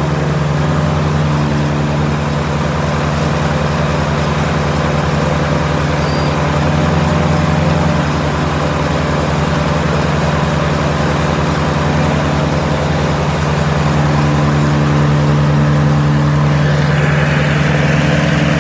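Kubota G23-II ride-on mower's diesel engine running steadily. A higher whine joins it near the end.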